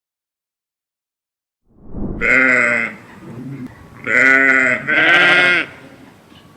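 Three wavering bleats from a farm animal, beginning about two seconds in, each a little over half a second long.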